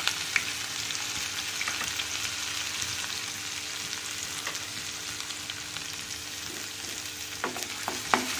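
Chopped green chillies and grated ginger sizzling steadily in hot oil in a kadhai. Near the end a wooden spatula knocks and scrapes against the pan a few times as the stirring begins.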